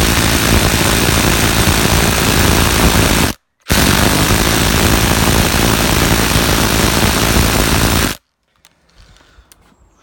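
Two cordless impact drivers, a Fein ASCD18-200W4 and a Makita BTD136, hammering in reverse as a loud, dense rattle of impacts while trying to back out long plate-head wood screws stuck fast in timber. The hammering breaks off briefly about three and a half seconds in, resumes, and stops about eight seconds in.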